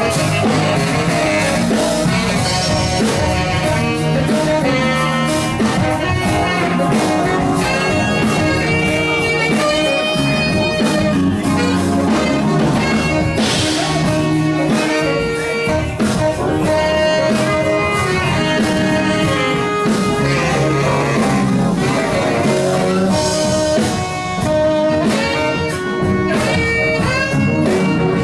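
Live blues band playing an instrumental passage: drums, bass and keyboards under a soloing lead instrument.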